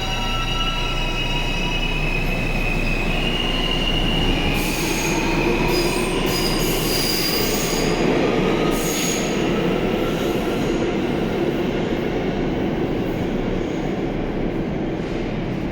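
R160 subway train running through the station, a continuous rumble with wheels squealing in thin high tones over it. It is loudest about a third of the way in and eases slightly near the end.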